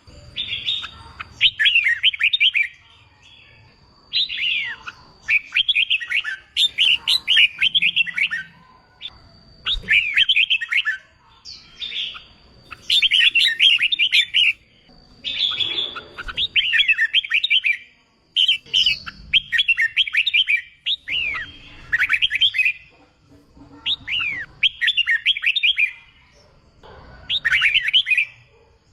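Red-whiskered bulbul song: short, rapid, warbling phrases repeated every second or two with brief gaps between them.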